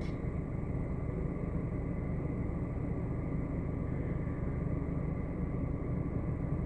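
Car engine running steadily, heard from inside the cabin as a low, even hum.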